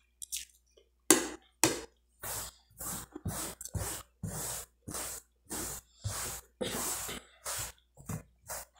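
A person chewing a mouthful of cuscuz and fried sausage close to the microphone, with short chewing noises about twice a second.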